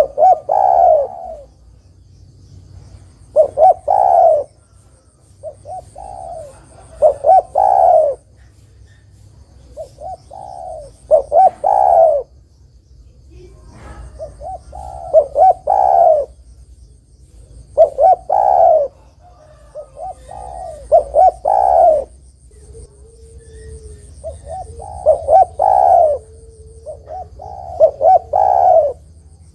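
Spotted dove (derkuku, tekukur) cooing. Its multi-note coo phrase repeats every three to four seconds, about nine times. It is the territorial call used as a lure to draw other doves into answering.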